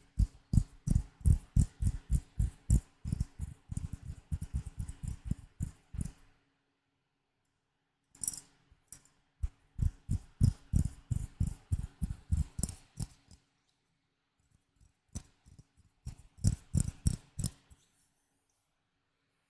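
Close-miked ASMR trigger sounds from an object being handled: quick repeated taps or squishes, about four or five a second. They come in three runs with short silent pauses between them.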